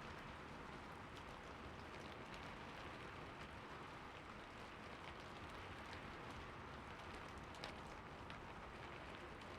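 Heavy rain falling steadily: an even hiss with scattered drop ticks, and one sharper drop tick late on.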